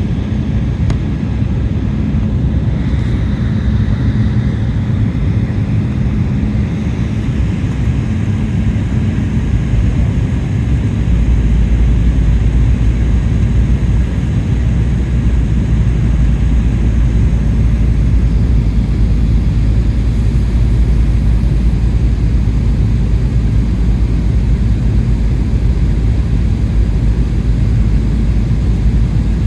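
Jet airliner's cabin noise in flight: a steady low rumble of engines and airflow, which grows heavier and deeper about eleven seconds in.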